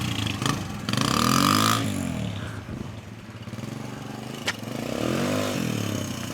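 Motorcycle engine running, revved up and back down twice, about a second in and again about five seconds in, with a single sharp click between the two revs.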